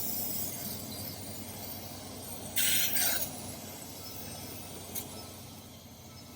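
A short hissing spray burst, about half a second long, about two and a half seconds in, while a clogged hydraulic cooling-fan filter is being cleaned of muck. A single small click follows near five seconds in.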